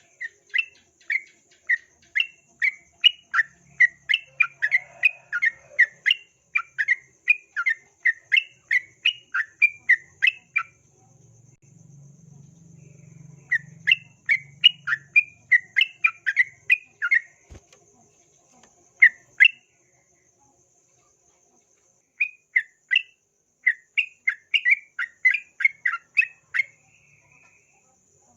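Yellow-vented bulbul (trucukan) singing rapid runs of short, sharp notes, about three a second, in several bouts with short pauses between.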